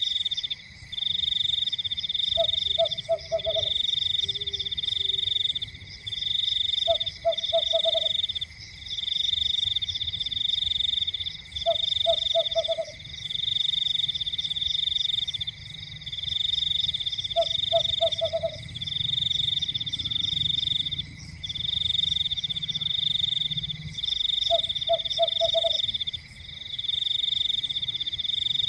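Frogs calling: a loud, high, rapidly pulsed trill repeating in bursts of about a second and a half with short gaps, and every four to five seconds a short run of three or four lower croaks, over a steady high tone.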